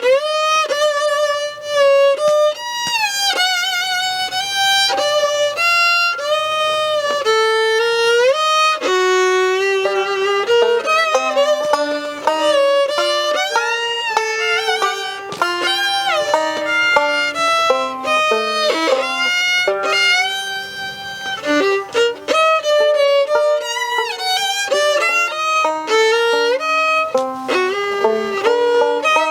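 Fiddle playing a tune. Long held notes with vibrato give way to quicker runs of notes about ten seconds in.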